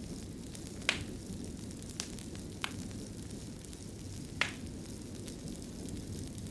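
Wood fire burning in a fireplace: a steady low rumble with four sharp crackling pops spread irregularly through it.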